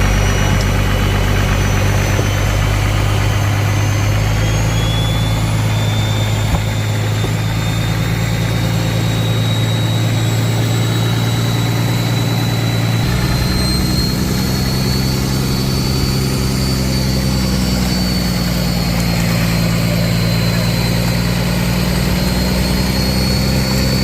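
A fishing boat's engine running steadily at low speed, with a faint high whine above it; about halfway through the engine note shifts slightly, as the speed changes.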